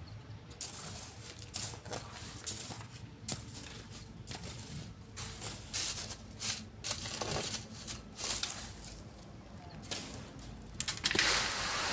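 Manual sand work: shovels scraping and sand being tossed and sifted, an irregular string of scrapes and knocks. Near the end a steady rushing hiss starts.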